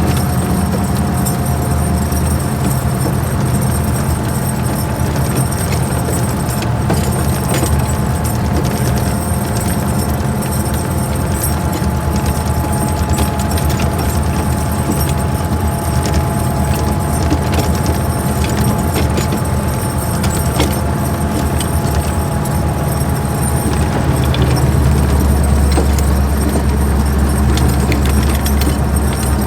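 A steady, loud, low mechanical hum, with scattered light metallic clicks and ticks over it.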